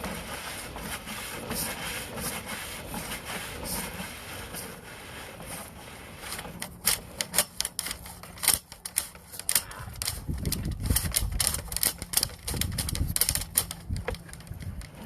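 Sewer inspection camera and its push cable being fed back into a drain pipe: rapid, irregular clicking and rattling that grows busier about halfway through, with a low hum and a rumble in the second half.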